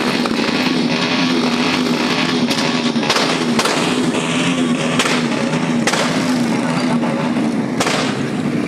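A motorcycle engine running steadily, mixed with music, with a few sharp clicks.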